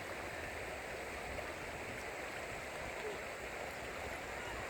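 Mountain stream water rushing in a steady, even flow.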